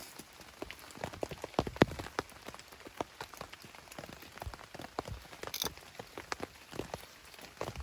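Rain falling on a tarp shelter: irregular drops tapping over a soft hiss, with one louder drop nearly two seconds in.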